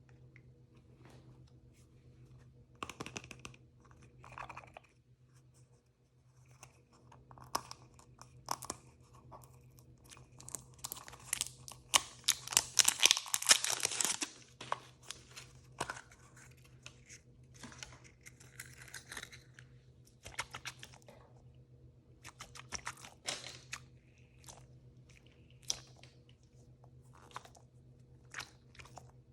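Hands opening blind-bag packaging: plastic wrapper crinkling and tearing, with a dense, loud stretch of tearing about 11 to 14 seconds in, and scattered clicks and taps around it.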